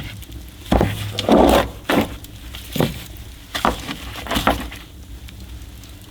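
An irregular run of knocks and clatters, roughly one every half second to a second, the fullest a little over a second in, dying down near the end.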